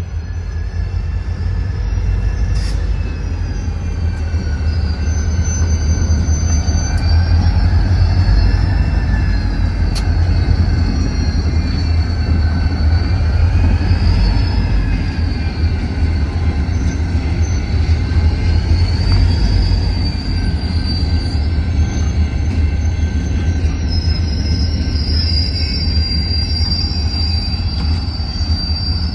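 Great Lakes Central Railroad locomotive 382 and its cars moving while switching: steel wheels squealing against the rails with a high, wavering pitch over a steady low rumble.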